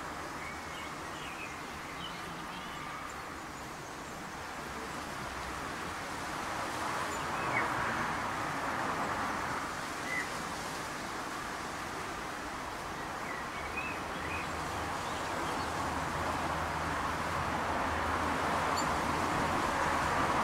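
A few short, faint bird chirps, scattered about a second in, around eight and ten seconds, at fourteen seconds and near the end, over a steady outdoor background noise that slowly grows louder.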